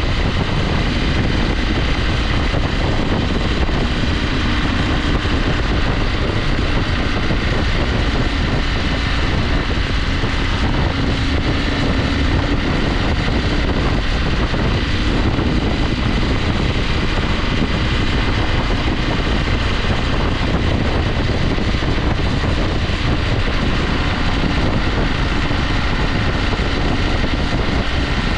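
KTM 890 Adventure's parallel-twin engine running steadily under way, mixed with wind rushing over the microphone.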